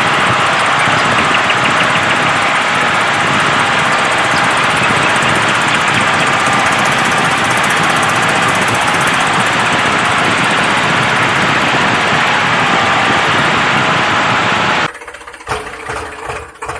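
A loud, steady, engine-like motor noise that cuts off abruptly about fifteen seconds in, followed by quieter, evenly repeating pulses.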